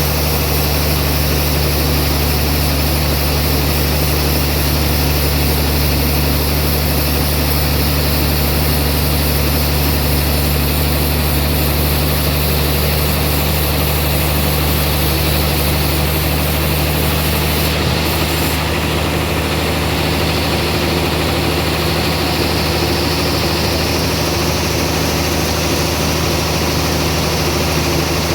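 Band sawmill running steadily with a deep, even hum; the higher hiss shifts about two-thirds of the way through.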